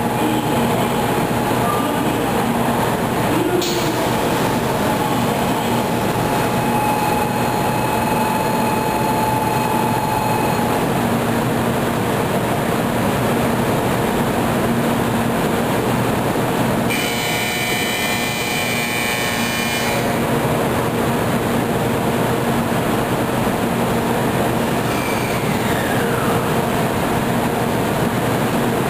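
A 700 series Shinkansen train standing at a station platform, its onboard equipment giving a steady hum with several steady tones. About seventeen seconds in, a ringing sound lasts about three seconds.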